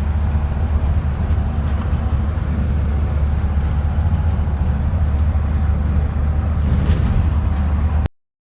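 Heavy vehicle running with a steady low rumble, cutting off abruptly about eight seconds in.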